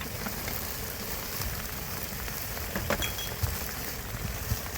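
A steady hiss with scattered light clicks and taps.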